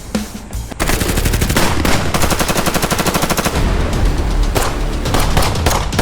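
Automatic gunfire sound effect: a rapid burst of shots starts about a second in and runs for a couple of seconds, followed by a few more shots near the end.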